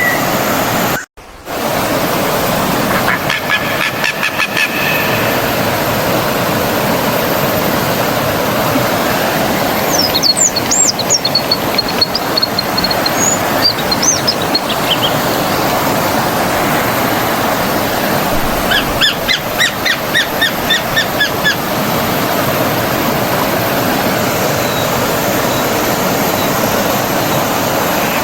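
Forest stream flowing steadily, with birds calling over it: a few high chirps and whistles in the middle and a quick run of repeated calls later on. The sound drops out for a moment about a second in.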